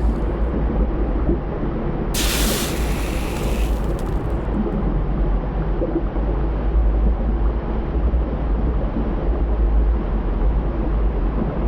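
Volcanic eruption: a continuous deep rumble, with a brief hissing rush about two seconds in.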